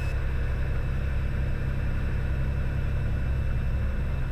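Cessna Skylane's single piston engine running steadily at low power after landing, a constant low drone.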